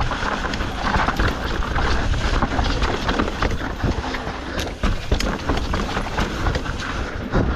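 Mountain bike riding fast down a rocky trail: tyres crunching over rock, with a constant stream of rattles and clattering knocks from the bike.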